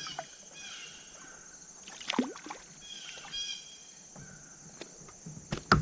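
Kayak on the water: scattered knocks against the hull and some water noise, with a sharp knock just before the end and a few short high calls in between.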